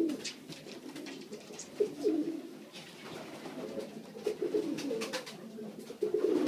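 Racing pigeons cooing over and over, with several short sharp clicks between the coos, as cocks squabble over ground.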